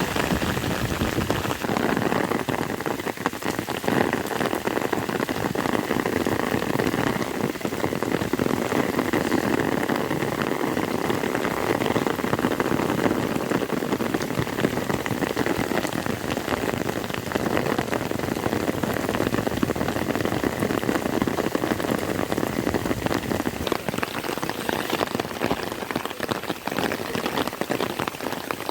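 Heavy rain falling steadily, a dense patter of many drops striking surfaces close by.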